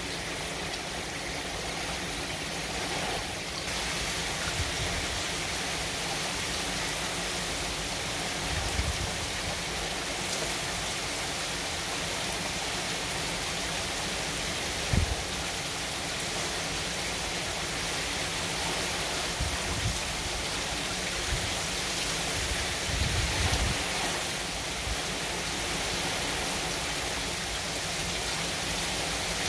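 Steady hiss of Hurricane Ian's wind-driven downpour. A few low thumps come through it, the sharpest about halfway through.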